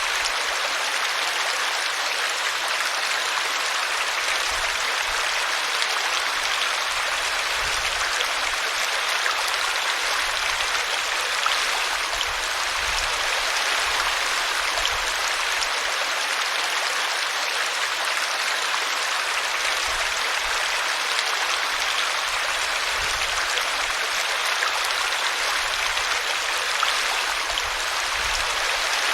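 Small brooklet splashing and babbling over a tree root: a steady, even rush of running water with occasional low gurgling thuds.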